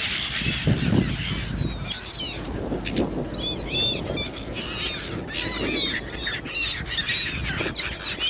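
A flock of silver gulls squawking, many short high calls overlapping one another, as they compete for prawns being handed out.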